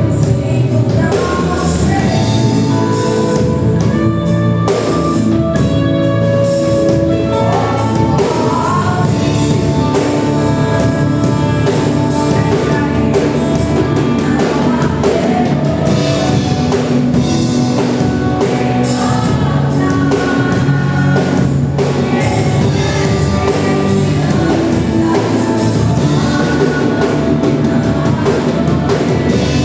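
Gospel worship song played by a live church band: singing over drum kit and band, steady and loud throughout.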